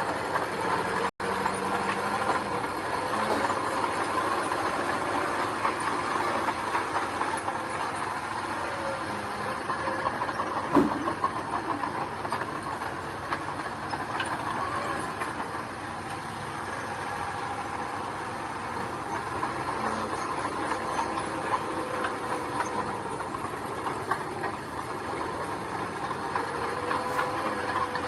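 Diesel engine of a tracked mini bulldozer running steadily while working gravel, with a single sharp knock about eleven seconds in.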